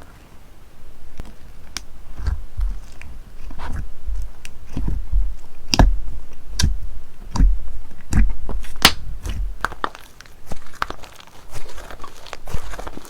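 Slime being squeezed and poked by hand, giving an irregular run of sharp clicks and pops over soft low squelching thuds.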